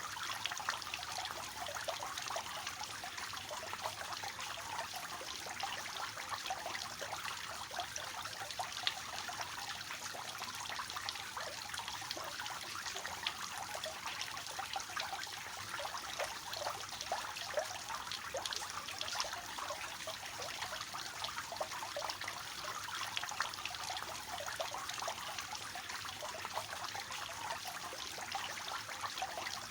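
Water falling in a triple-tiered fountain, splashing and trickling steadily into the basins.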